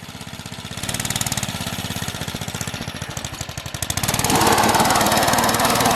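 Small single-cylinder minibike engine running at idle with an even, fast putter. It gets louder and rougher about four seconds in.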